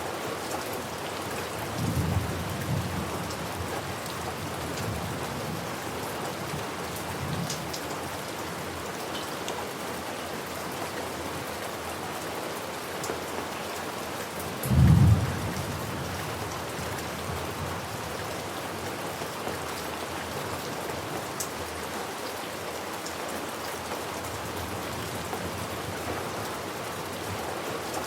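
Steady heavy rain with thunder: a low rumble about 2 seconds in, fainter rumbles after, and a short, loud deep clap of thunder about halfway through.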